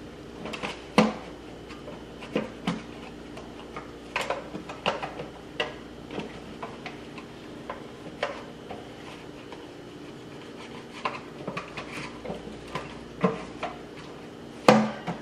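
Clear acrylic fridge bins being handled, sprayed and wiped down: scattered hard plastic clicks and knocks, with a louder knock about a second in and another near the end, over a steady low hum.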